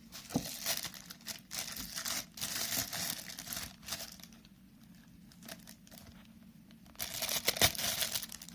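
Packaging crinkling and rustling as appliance parts are unwrapped by hand. It comes in two spells, a longer one at the start and a shorter one about seven seconds in, with a quieter gap between them and a few sharp clicks in the second spell.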